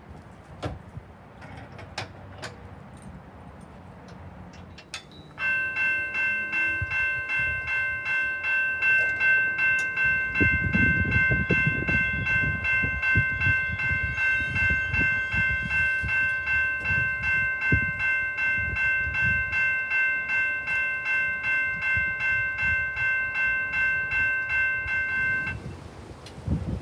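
Railroad crossing bell ringing with rapid, even strokes and a sustained metallic ring. It starts about five seconds in and cuts off abruptly near the end.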